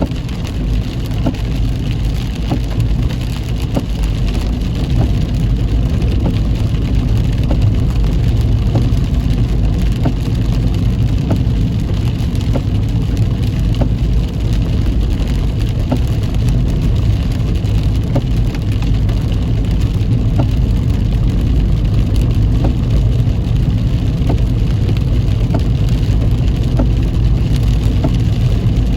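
A car driving in heavy rain: a steady low rumble of the engine and tyres on the wet road, with rain spattering on the car in faint scattered ticks.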